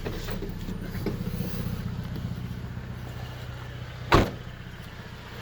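Honda Civic R18 1.8-litre four-cylinder engine idling warm on freshly fitted spark plugs after a misfire, running steadily and sounding a lot better. A single loud knock comes about four seconds in.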